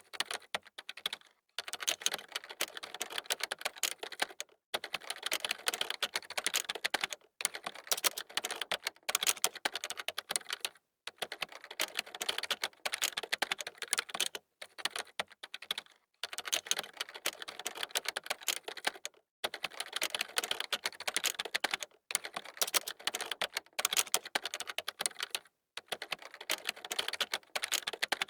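Computer keyboard typed on quickly, fast clattering keystrokes in runs of one to three seconds with brief pauses between them.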